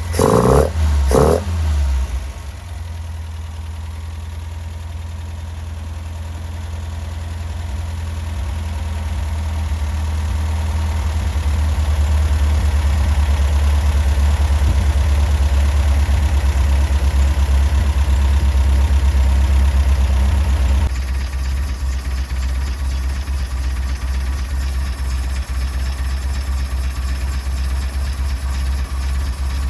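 Datsun Bluebird 411's J-series four-cylinder engine idling steadily, fitted with an MGB intake manifold and a copy Weber carburettor; the drone grows louder over several seconds, then steps down about two-thirds of the way in.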